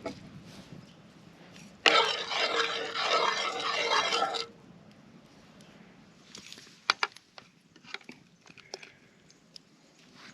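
A spoon or whisk stirring cornstarch into a pot of simmering stock and beer: a burst of scraping about two seconds in that lasts a couple of seconds and stops abruptly, followed by a few light clicks of the utensil against the pot.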